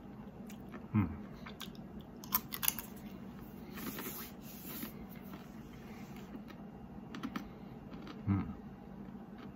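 Hard, salted twisted pretzel being chewed: scattered sharp crunches, most of them in the first three or four seconds, then quieter chewing. Two short low hums from the eater, about a second in and near the end.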